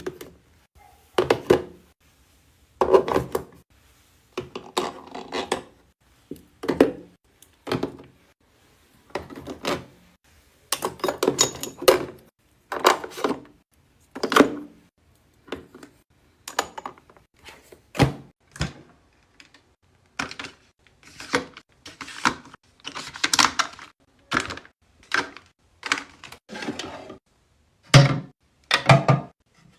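Skincare bottles and jars being set down and arranged in a small fridge: a string of irregular knocks, taps and clatters, with short silent pauses between them.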